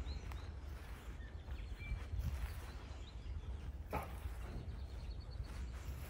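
Wild birds singing: scattered short high chirps and whistles, then a quick run of repeated high notes in the second half, over a steady low rumble.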